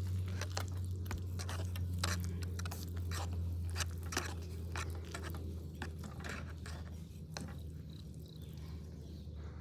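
Wood fire crackling in a compact fire pit: irregular sharp pops and snaps over a steady low hum.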